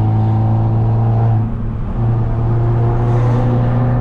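Straight-piped, turbocharged Mercedes C250 engine droning steadily under way, dropping off briefly about a second and a half in as for a gear change, then pulling again with the pitch slowly rising.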